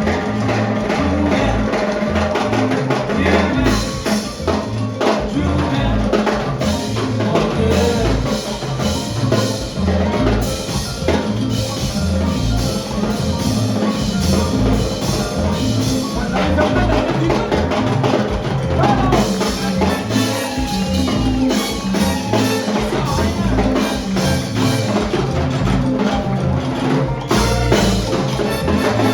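Salsa band playing live, a repeating bass line under drums and hand percussion. The upper instruments thin out for a few seconds in the middle, then the full band comes back in.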